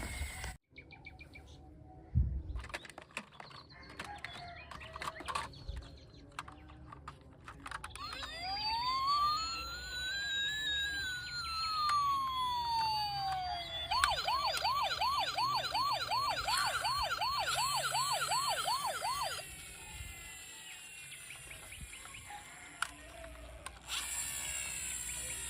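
Electronic toy emergency-vehicle siren: after a few scattered clicks, one slow wail that rises and falls, then a fast yelping warble of about four cycles a second that stops suddenly.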